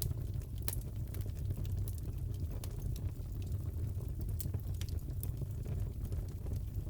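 Wood fire crackling in a fireplace: scattered sharp pops and snaps, a few a second, over a steady low rumble.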